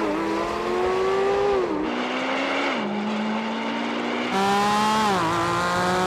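High-performance sports car engine accelerating hard through the gears, its pitch climbing slowly and dropping at each upshift, three times. About four seconds in the sound jumps abruptly back to a higher pitch.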